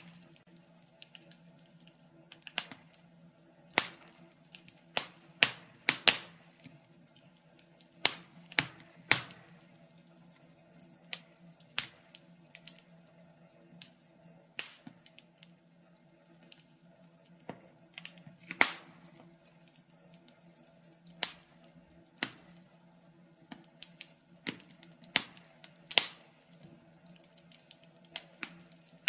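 Wood fire crackling in a fireplace: irregular sharp pops and snaps, some much louder than others, over a faint steady background.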